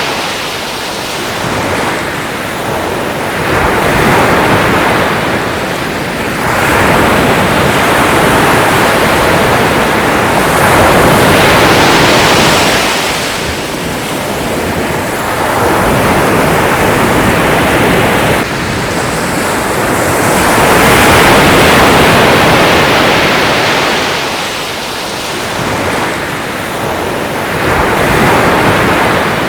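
Sea waves breaking and washing ashore in a steady hiss of surf, swelling and falling back every few seconds.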